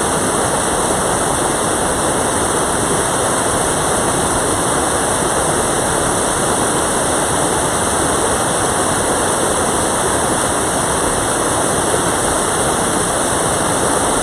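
Mountain stream water rushing over rocks in a steady, loud, unbroken flow.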